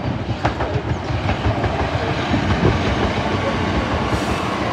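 Southeastern Class 375 Electrostar electric multiple unit running in along the track: steady wheel-on-rail rumble with clicks over the rail joints. A faint thin whine starts near the end and slowly falls.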